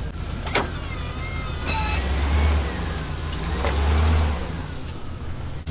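A vehicle engine running with a low rumble that swells louder twice, with a sharp click about half a second in.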